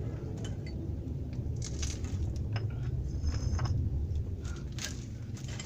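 Scattered light clicks and clinks, as of metal parts and tools being handled, over a steady low rumble.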